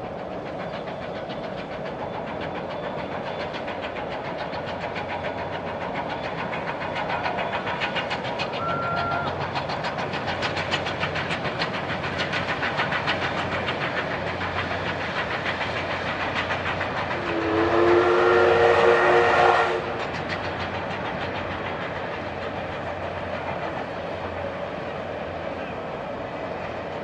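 DT668 steam locomotive passing with its train, a rapid rhythmic beat that builds up and then fades. Near the middle its steam whistle sounds once for about two and a half seconds, a chord of several tones, the loudest sound, cut off sharply.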